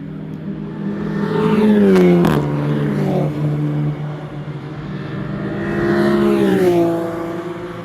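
Race car engine accelerating hard, with an upshift about two seconds in where the pitch drops sharply, then pulling up again before the revs fall away near the end as it eases off.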